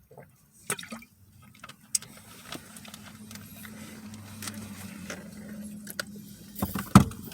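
Food and packaging being handled: scattered clicks and rustles over a steady low hum, with a louder knock near the end.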